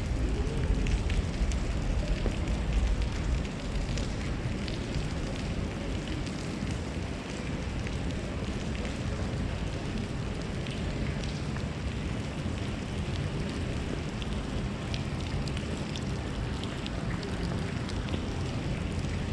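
Steady outdoor noise of a wet city towpath, with a heavy low rumble in the first few seconds that eases off, and scattered light ticks throughout.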